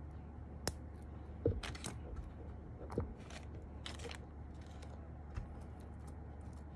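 Small plastic clicks and snaps, a few seconds apart, of mechanical-keyboard stabilizers being handled and pressed into place by hand.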